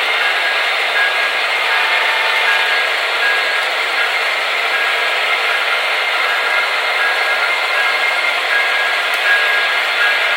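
Sound decoders of several HO scale diesel locomotives running together in one consist, their small speakers' engine sounds blending into a steady, dense drone with no deep bass, with a faint whine that comes and goes.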